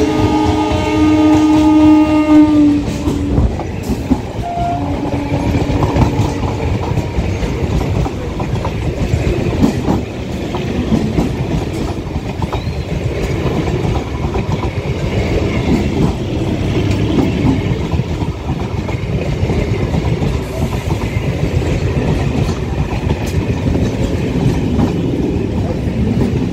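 Horn of an electric local train (EMU) blowing for about two and a half seconds, with a shorter second blast around five seconds in. After that comes the steady rumble of the EMU passing close by, its wheels clattering over the rail joints.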